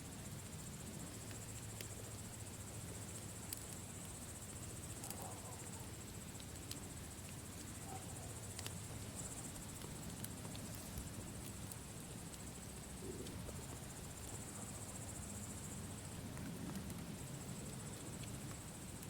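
Campfire burning with a low steady rush and scattered sharp crackles and pops, over a steady high chirping of insects such as crickets.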